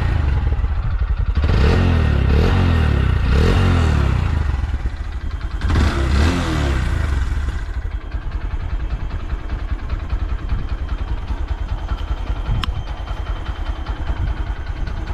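Honda Grom (JC61) 125 cc single-cylinder four-stroke engine being blipped: a few quick revs in the first four seconds and another at about six seconds, each rising and dropping back, then settling to a steady idle. One sharp click near the end.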